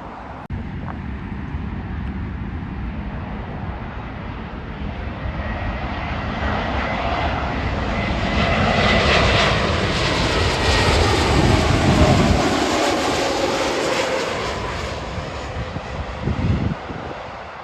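Jet airliner flying past. Its engine noise builds to a peak about ten seconds in, with tones sliding down in pitch as it passes, then fades away.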